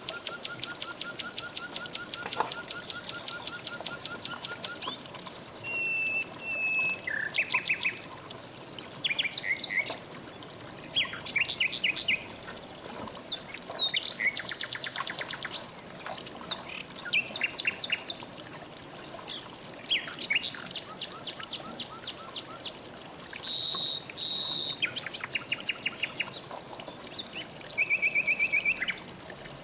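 Several songbirds singing and calling in turn, mostly fast trills of evenly repeated notes with short whistles and chips between them, over a steady rush of flowing river water.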